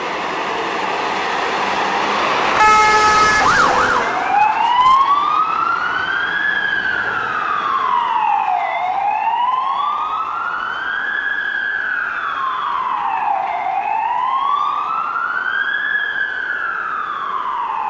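Fire engine's siren: a short horn blast about two and a half seconds in, then a slow wail that rises and falls about every five seconds.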